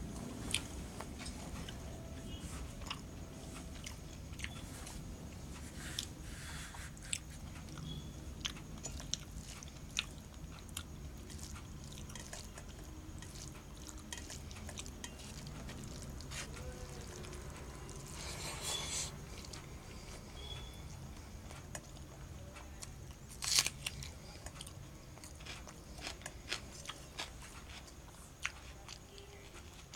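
A person eating rice and curry by hand: chewing and mouth smacks with scattered small clicks. One click, a little past the middle, is louder and sharper than the rest. A low steady hum runs underneath.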